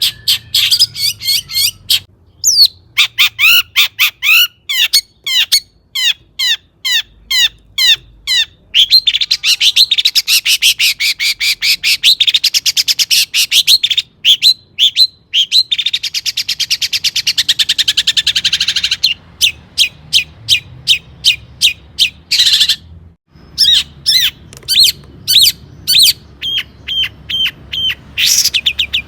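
Long-tailed shrike (cendet) singing a fast, varied song: runs of sharp repeated notes and dense rattling trills, broken by brief pauses. The song is packed with imitations of other birds' songs.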